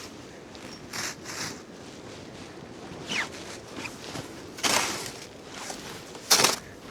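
Snow shovel scraping and tossing snow in a few short, irregular swishes, the two loudest about halfway through and near the end.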